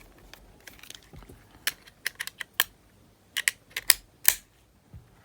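Sharp small clicks and taps of a plastic cover being fitted back over the capstan flywheel inside a Panasonic RQ-S60 cassette player, coming in quick clusters from about a second and a half in.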